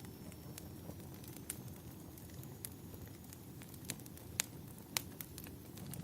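Wood fire in a fireplace crackling, with scattered sharp pops over a steady low rumble. The two loudest pops come close together a little past the middle.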